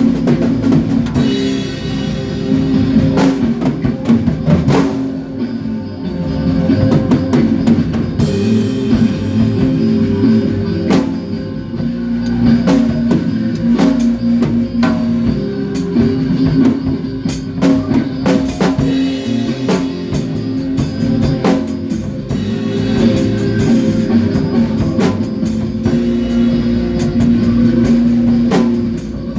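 A rock band playing through a song in rehearsal: a drum kit keeps a steady beat of kick, snare and cymbal hits under sustained guitar notes.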